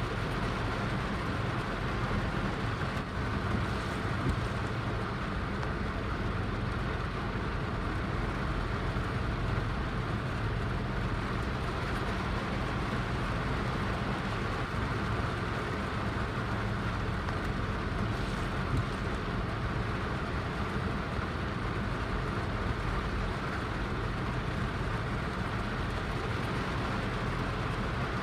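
Heavy rain falling steadily, an even unbroken hiss with a low rumble beneath it.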